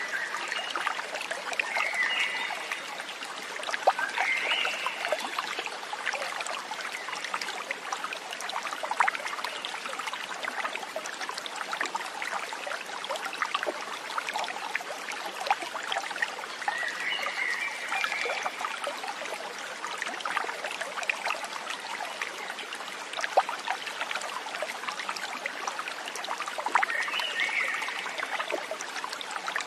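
Stream water trickling and splashing over stones, a steady dense babble of small droplet ticks. Four short high chirps come through over it.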